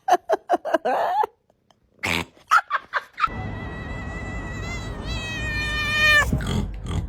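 Cats vocalising. A quick run of short calls comes first, then a pause and a few more short calls. From about three seconds in, one long, high-pitched, drawn-out meow sounds over a low rumble and cuts off suddenly near the end.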